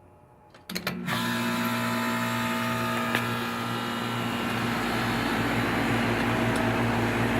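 Goodman 3-ton central air conditioner condenser starting up: a few sharp clicks about three quarters of a second in, then the compressor hums steadily and the outdoor fan's air noise builds over the next few seconds.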